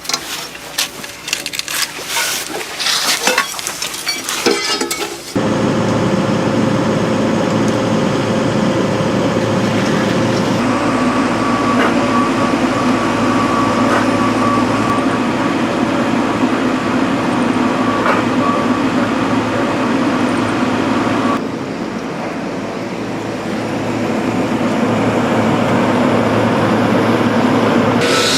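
Irregular clattering and cracking knocks for about five seconds, then heavy construction machinery running steadily. The sound changes abruptly twice more, at edits between shots.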